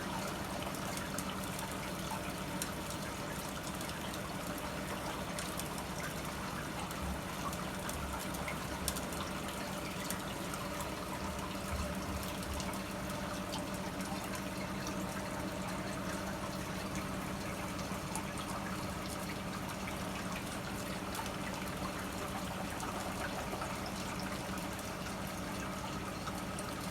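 Reef aquarium system running: steady trickling, splashing water from the tank's drain and sump plumbing over a constant low pump hum, with a few faint clicks.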